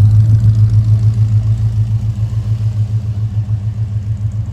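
Car engine idling with a low, evenly pulsing note that fades gradually.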